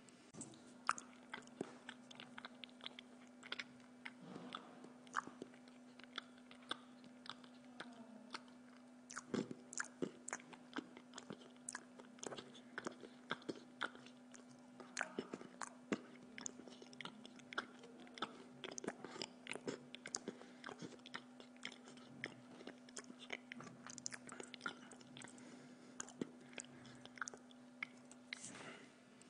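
A person chewing food close to the microphone, with many short sharp mouth clicks and smacks, over a steady low hum.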